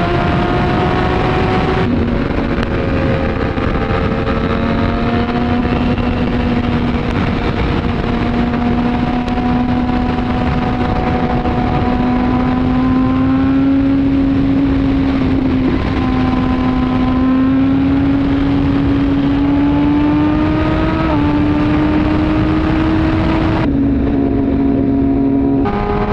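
Suzuki GSX-R1000R inline-four with an Arrow exhaust, pulling hard at highway speed, with steady wind rush. The engine note climbs slowly for long stretches, drops shortly after the start, and changes pitch a few more times near the end as gears change.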